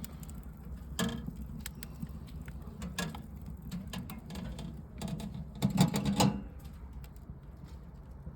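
Wood fire crackling and popping in a small camp stove: scattered sharp clicks, with a louder run of knocks and pops about six seconds in, over a low steady hum.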